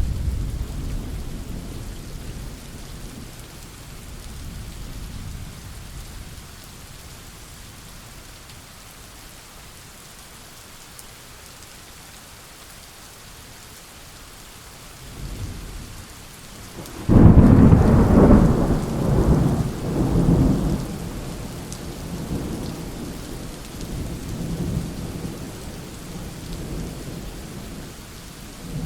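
Thunderstorm: steady rain hissing, with rolling thunder. A rumble dies away over the first few seconds, a faint one comes later, and a little past halfway a sudden loud thunderclap breaks and rumbles on for several seconds, fading into lower rolls.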